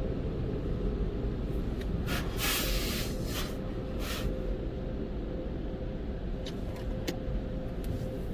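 Steady low rumble of a car idling, heard from inside its cabin, with a faint steady hum. About two seconds in, a loud hiss lasts a second and a half, followed by a shorter hiss a little later and a few light clicks near the end.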